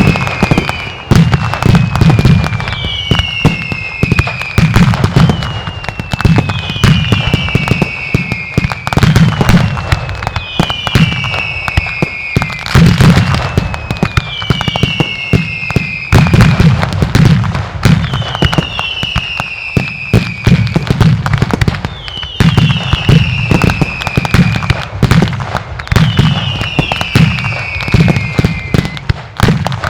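Mascletà barrage of Spanish firecrackers and salutes: a rapid, rhythmic stream of loud bangs and crackling, with a falling whistle about every two seconds.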